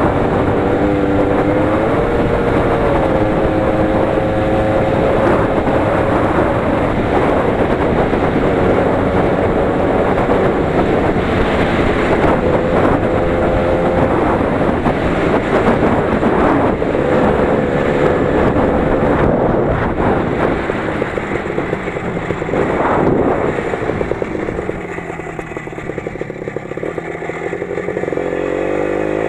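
The 20 hp engine of a Лидер 3.221 running under load as it is driven, its pitch rising and falling. It eases off about three-quarters of the way through and picks up again near the end.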